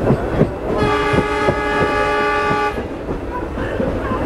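Train horn sounding one steady blast of about two seconds, over the clatter of wheels on the rails.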